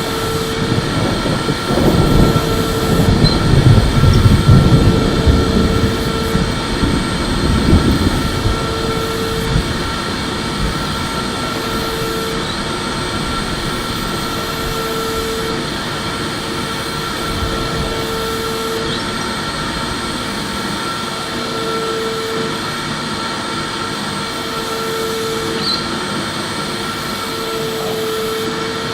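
Electric vacuum cleaner running steadily: a continuous motor hum with a steady high tone over the airflow hiss. A heavier low rumble swells for the first several seconds, then settles back.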